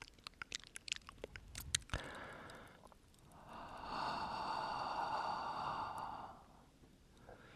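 Close-up mouth sounds: a run of wet mouth clicks and smacks, then a short breath and a long slow exhale blown onto the microphone, lasting about three seconds.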